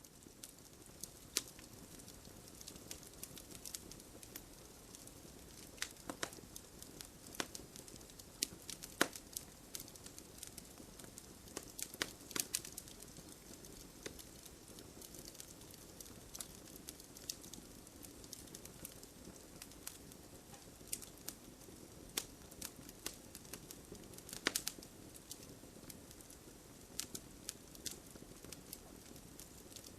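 Wood fire crackling in a fireplace: a steady low hiss of burning with frequent irregular sharp pops and snaps, a few louder ones scattered through.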